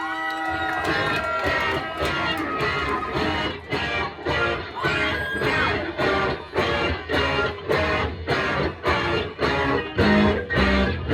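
Live electric guitar strumming a chord pattern, about two strums a second, at the start of a rock song. Heavier low notes, likely bass, come in near the end.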